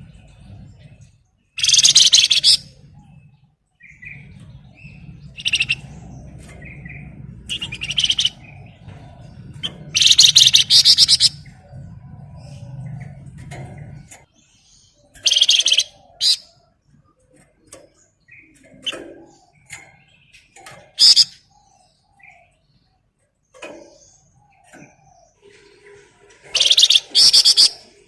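Flamboyan songbird singing in loud, rapid rattling trills (ngebren), about seven bursts of a second or so separated by pauses, with quieter short chirps in between. A low hum sits under the first half and stops about halfway through.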